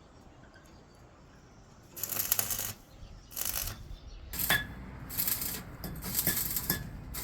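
Metalwork on a truck cargo frame: about five short bursts of harsh, hissing noise, each under a second, mixed with sharp metal clicks and a brief ringing clink about halfway through.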